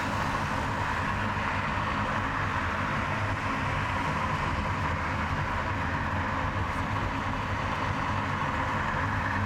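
Steady road noise of a car being driven: tyre rush with a low engine and road rumble, even throughout without distinct events.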